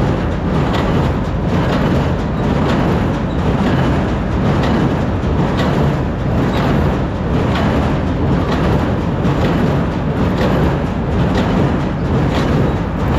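Tractor engine running at high RPM, driving a small square baler and bale accumulator. A regular knock from the baler comes about once a second over the steady engine noise.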